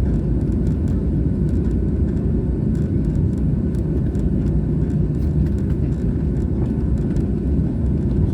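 Steady low rumble of a jet airliner's engines and airflow, heard from inside the passenger cabin, with a few faint light ticks over it.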